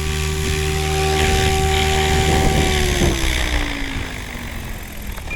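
Model RC helicopter's motor and rotors whining steadily at flying speed, then about three seconds in the pitch falls smoothly as the rotors spool down with the throttle cut to hold.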